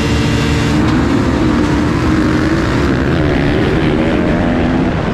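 Dirt bike engine running loud and fairly steady, its pitch wavering slightly.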